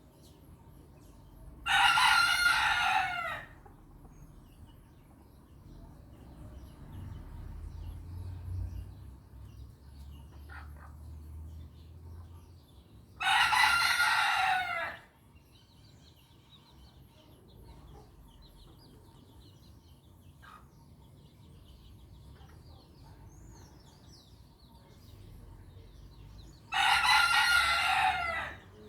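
A rooster crows three times, each crow lasting under two seconds, roughly twelve seconds apart. Faint high peeping of young chicks fills the gaps between crows.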